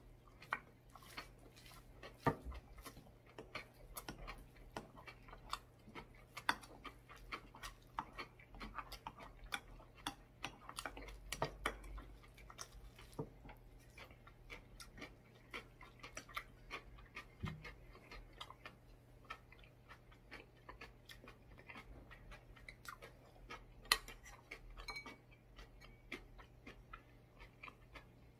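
Close-up eating sounds: chewing a mouthful of bean sprout rice, with a steady run of small wet mouth clicks and smacks and a few louder knocks of the wooden spoon against the ceramic bowl. A faint low hum runs underneath.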